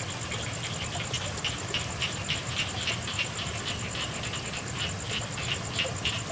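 Frogs croaking in a rapid series of short calls, about three a second, over the steady hiss of night rain, with a thin high trill running underneath.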